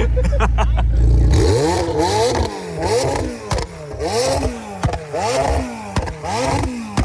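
A car engine holds a steady low drone, then about a second in starts revving up and down in quick repeated surges, roughly one and a half a second.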